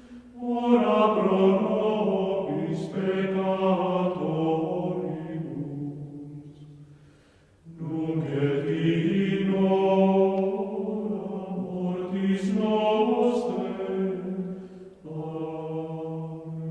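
Voices singing a slow devotional chant in long, held notes: one phrase that fades out, a brief pause, a second phrase, and a long held note near the end.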